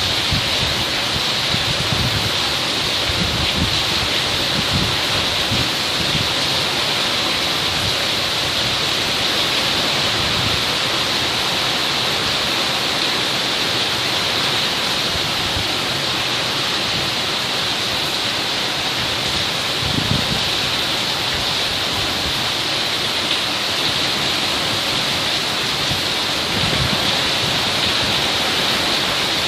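Heavy rain falling steadily in a thunderstorm, a constant hiss, with a few brief low thumps: near the start, about twenty seconds in and again near the end.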